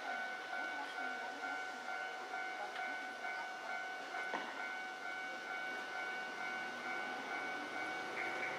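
Electric commuter train at the station platform, a steady high-pitched whine of several held tones over a low rumble, with a single sharp click about four seconds in.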